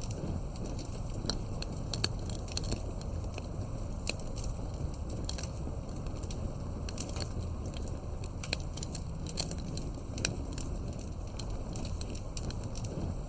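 Campfire crackling: irregular sharp pops and snaps over a steady low rumble of the flames.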